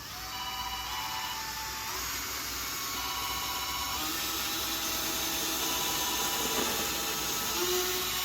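Electric drill running steadily, boring holes into a cork stopper. A phone ringtone chimes twice, briefly, over it.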